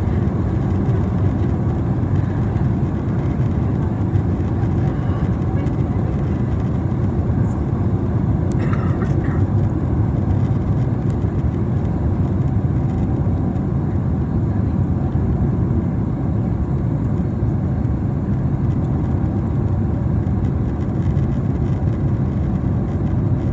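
Boeing 767-300ER cabin on final approach: a steady low rumble of engine and airflow noise heard from inside the aircraft.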